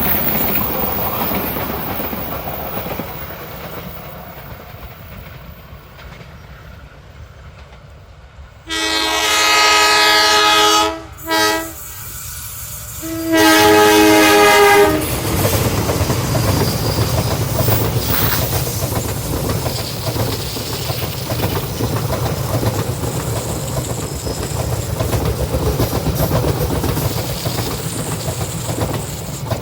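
A train horn sounds a long blast, a short toot and another long blast, a few seconds after an earlier rumble has faded. Then a passenger train passes close by with a steady rumble and clickety-clack of wheels on the rails.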